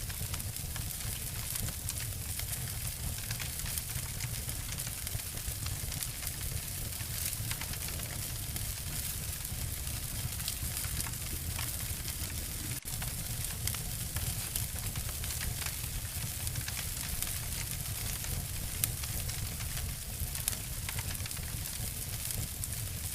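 Wood fire crackling and snapping: a steady hiss and low rumble with frequent small sharp pops.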